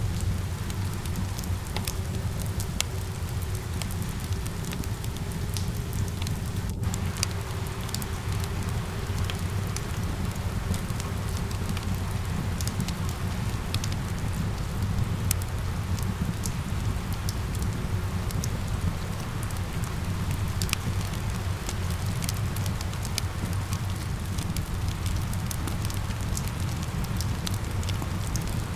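Steady rain mixed with a crackling wood fire, many small sharp pops of the fire over the even hiss and low rumble of the rain.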